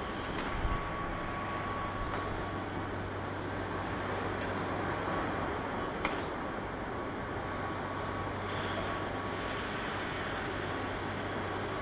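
Steady outdoor background noise with a low hum and a faint steady high tone, broken by a few short knocks.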